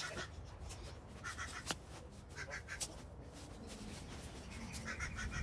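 A bird calling outdoors: four short calls spaced about a second or more apart, over a low background rumble, with two sharp clicks in the middle.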